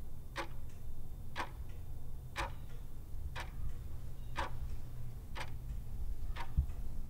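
Clock ticking steadily about once a second over a low steady rumble, marking the ten-minute wait while the rust converter works.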